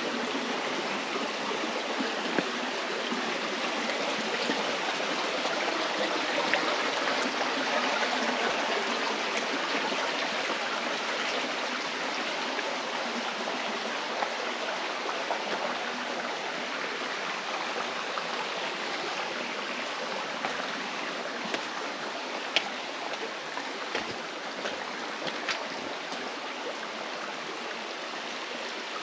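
Stream water rushing steadily, with a few faint sharp clicks in the second half.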